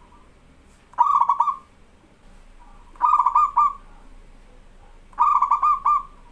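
Zebra dove (perkutut) cooing: three short phrases of quick, clipped coo notes about two seconds apart, a bird in full song.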